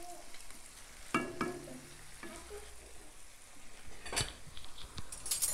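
Prawns and onions sizzling in oil in a nonstick wok, a steady frying hiss, with a few sharp knocks of a wooden spatula against the pan.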